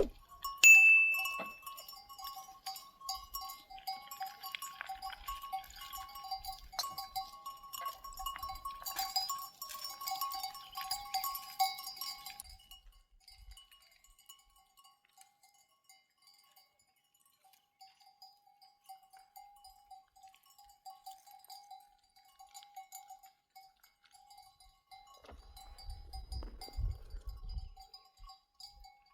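Bells on a grazing flock of sheep clinking and ringing, busy for the first dozen seconds and then thinner and fainter. A brief low rumble comes near the end.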